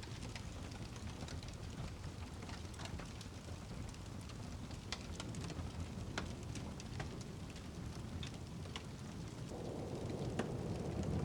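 Rain falling steadily over a low rumble, with scattered sharp crackles and ticks. The sound grows fuller and louder about nine seconds in.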